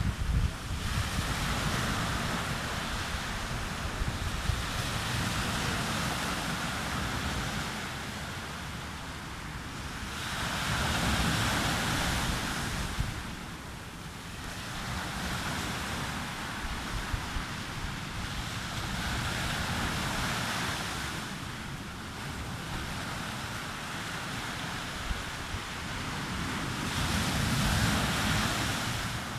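Sea waves breaking and washing up on a beach, each wave swelling and fading about every eight seconds, with wind rumbling on the microphone underneath.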